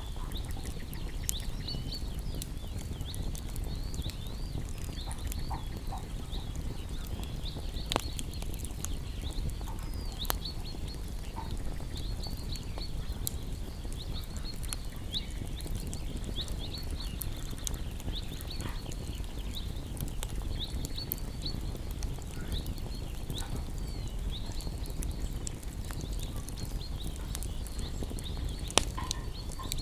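Small songbirds chirping without pause, many short high chirps, over a crackling wood fire that gives a few sharp pops, one about 8 seconds in and another near the end, with a low steady rumble underneath.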